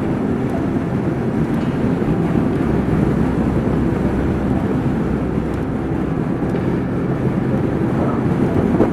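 Motorcycle on the move: a steady engine drone mixed with wind rush.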